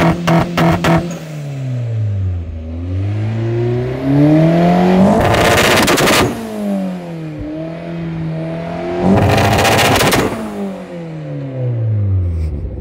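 Audi A4 quattro's big-turbo 1.8 inline-four revved while stationary, heard at the exhaust. For about the first second it is held at the launch-control rev limit with rapid crackling pops. The revs then drop and climb again, twice breaking into about a second of dense popping from the flat-shift ignition cut before falling away.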